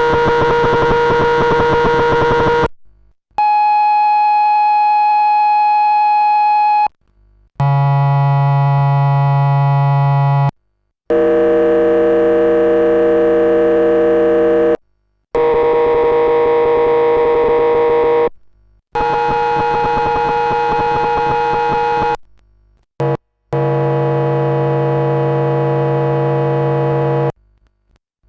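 Sovage Engineering Oxymoron Eurorack noise and odd-sound generator, driven by a square-wave source, with its outputs auditioned one after another. About seven held drone tones, each lasting three to four seconds, cut in and out with short gaps between them. Each output has a different timbre, some buzzy and rich in overtones, others with a strong low note.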